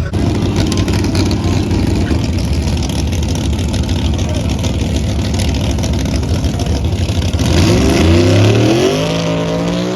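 Car engine running loudly at a low, pulsing idle, then revved about seven and a half seconds in, its pitch climbing and wavering.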